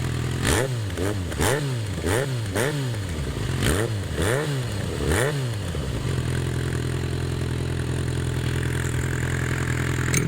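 2010 Yamaha XJ6 Diversion's 600 cc inline-four, breathing through an aftermarket XPR exhaust run without its cap. It is idling, then blipped about seven times in quick succession, each rev rising and falling back, and settles to a steady idle about six seconds in.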